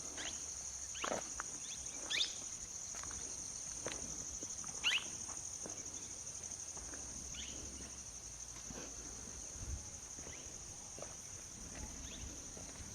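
Steady high-pitched chorus of forest insects such as cicadas or crickets, one even trilling drone. It is broken by a few short, faint chirps or clicks, the clearest about one, two and five seconds in.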